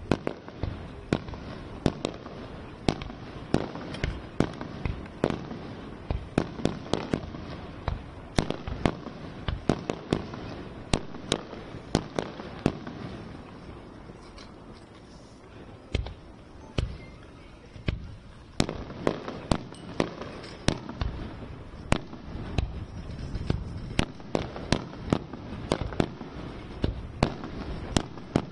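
Aerial fireworks shells bursting in quick succession: many sharp bangs, several a second, over a steady rumble. The bangs thin out and grow fainter around the middle, then come thick and fast again.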